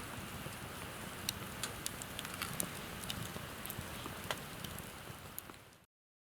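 Wood campfire crackling: a steady low hiss with scattered sharp pops and snaps, fading out near the end.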